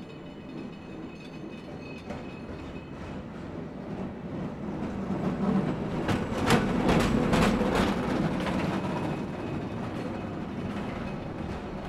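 A rail vehicle passing by. It grows steadily louder to a peak about six to eight seconds in, where a few quick clacks of wheels over rail joints are heard, then fades away.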